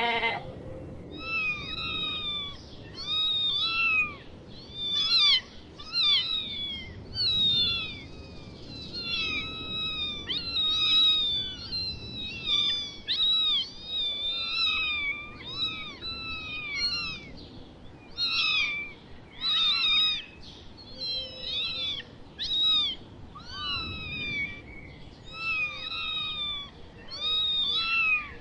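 Cat mewing: a long run of short, high-pitched meows, one or two a second, with few gaps.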